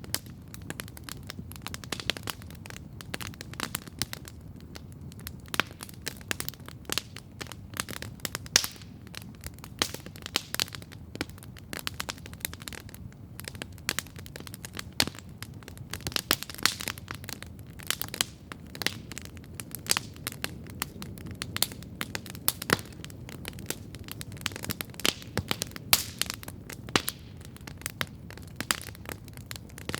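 Campfire burning, with a steady stream of crackles and frequent sharp pops over a low rushing of the flames.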